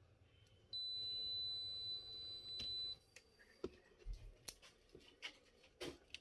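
A steady, high electronic beep lasting about two seconds, followed by scattered small clicks and taps.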